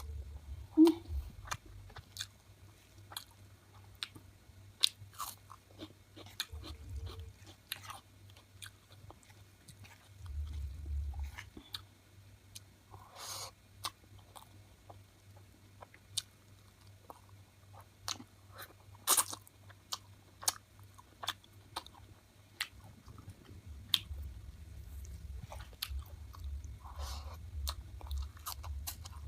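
Close-miked chewing and biting of cooked chicken, with irregular wet mouth clicks, smacks and occasional crunches.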